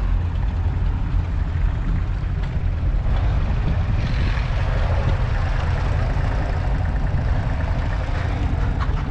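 John Deere 6400 tractor's 4.5-litre four-cylinder diesel engine running steadily, its sound mostly low.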